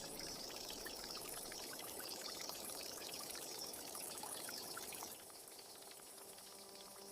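Water trickling steadily, with small drips, getting quieter about five seconds in.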